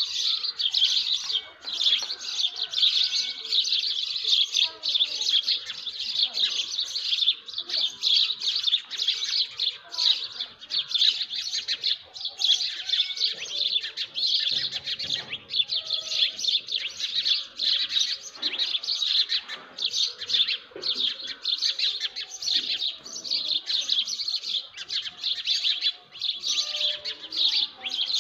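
Dawn chorus of many small birds chirping at once, their high chirps overlapping densely and without a break.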